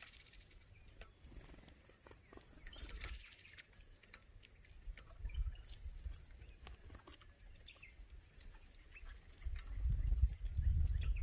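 Small birds chirping and calling, with a quick pulsed trill about three seconds in and scattered light taps. A low rumble swells near the end.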